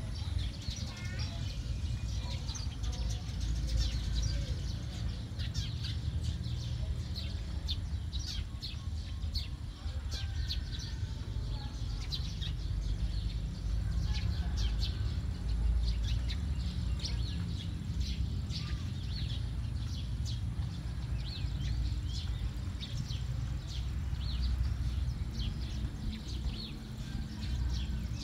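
Many small birds chirping in quick, dense short notes without a break, over a steady low rumble.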